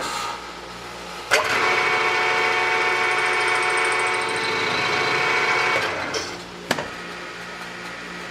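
3-in-1 lathe-mill taking a further cut on the chuck backing plate's recess. A steady machining whine starts sharply about a second in, holds for about four and a half seconds and dies away, over the machine's running hum. A single click comes near the end.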